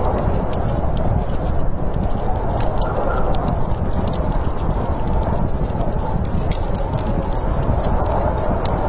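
Fire crackling with frequent sharp pops and snaps, over a steady low rush of storm wind.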